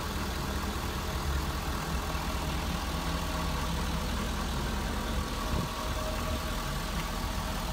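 Ford F-350 Super Duty pickup's engine idling steadily.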